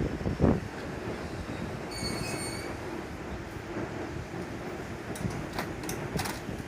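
Tokaido Line electric train running into a station platform at speed: a steady rumble of wheels on rail with a couple of clacks over the joints near the start, and a brief high-pitched wheel squeal about two seconds in.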